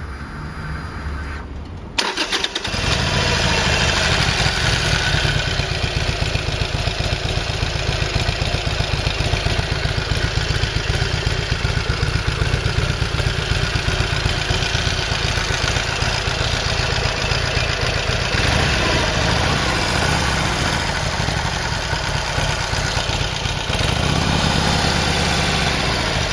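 Harley-Davidson Sportster 883R's air-cooled V-twin engine through its stock exhaust muffler, cranking and catching about two seconds in, then idling steadily with a rapid low pulse. The sound is not much different from a sewing machine.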